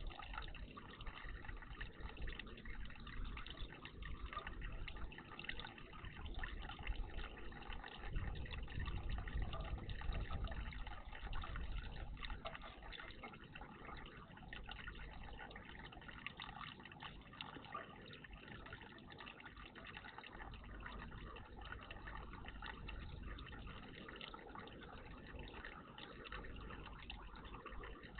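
Water splashing and trickling in a garden bird bath, steady throughout, with a low rumble for a few seconds about a third of the way in.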